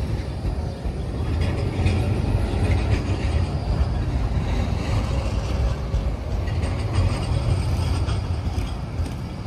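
A train moving through a railway station: a steady, heavy low rumble with light clatter above it.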